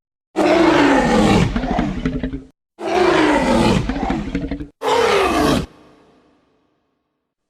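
Tyrannosaurus roar sound effects: three roars in a row, each sliding down in pitch. The third is shorter and trails off, and then nothing follows.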